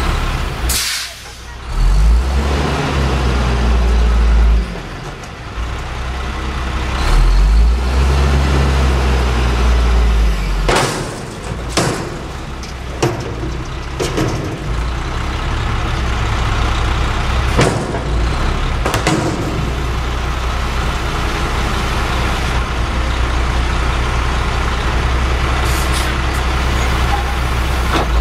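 Front-loader garbage truck emptying a dumpster: the diesel engine revs hard twice to drive the hydraulic lift arms, with sharp metal bangs and hisses as the bin is lifted, dumped and set down, then the engine runs steadily.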